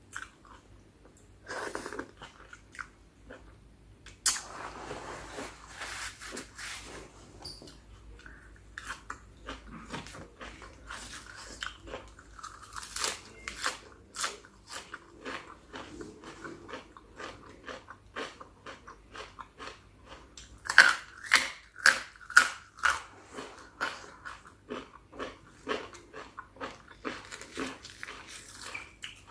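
Close-miked chewing and crunching of spicy chicken feet salad, with many short wet clicks and bites; a run of louder crunches comes about two-thirds of the way through.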